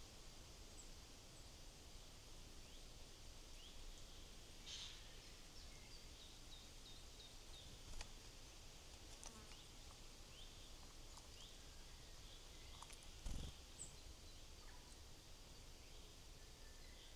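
Faint, scattered short chirps and call notes of small woodland birds, with a quick run of notes partway through. There is a sharp click about halfway and a soft low thump, the loudest sound, near three-quarters of the way through.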